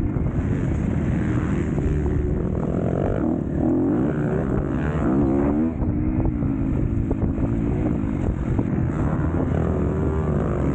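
Motocross bike engine being ridden hard, its pitch rising and falling again and again as it revs up and backs off, with wind noise on the microphone.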